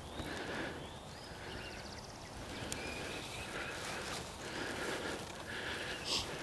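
Outdoor ambience with repeated short animal calls and a higher trill.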